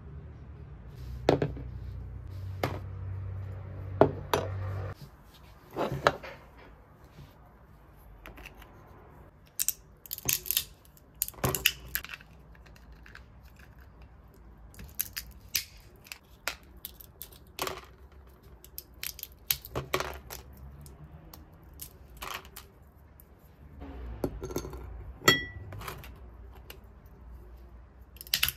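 Scattered small clicks, taps and rustling of objects being handled, with a low hum near the start and again near the end and a short high beep about 25 seconds in.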